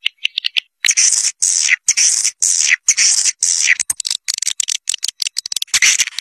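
Swiftlet caller recording: swiftlets giving a run of short, harsh, high chirps, about two a second, with quick runs of clicks near the start and just after the middle. It is the call played to lure swiftlets to a nesting house.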